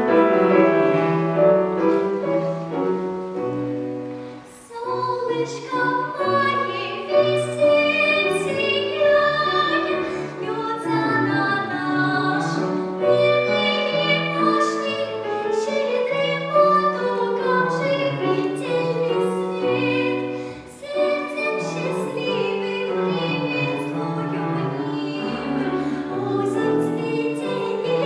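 A child's classical solo voice singing with piano accompaniment. The piano plays alone for the first few seconds, then the voice comes in with vibrato and sings in long phrases, with a short breath about two-thirds of the way through.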